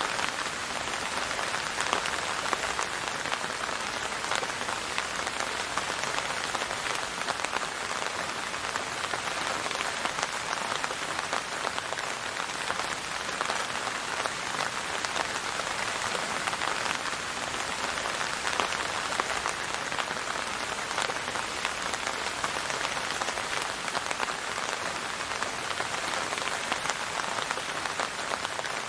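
Steady rain falling on a hard surface, a dense even patter with many distinct drop ticks and no thunder.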